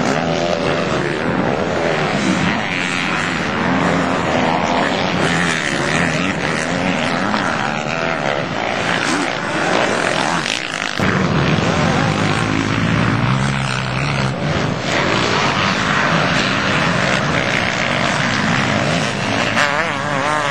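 Motocross dirt bike engines at full racing use, the pitch rising and falling as the throttle is worked and gears are shifted, with a clear change in the engine note about halfway through.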